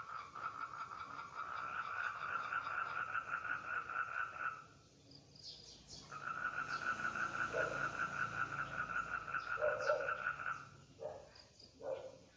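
Toads giving their breeding call: a long, even, rapid trill that breaks off for a moment and starts again, with a few short, lower croaks from other calls in the second half.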